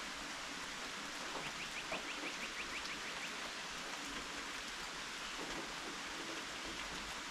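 Steady rainfall, an even hiss of drops. About a second and a half in, a rapid run of high chirps, roughly six a second, lasts for about two seconds.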